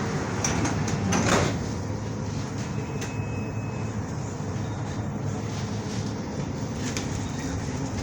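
Underground metro train: a brief louder rush of noise about a second in, then the train's steady low rumble.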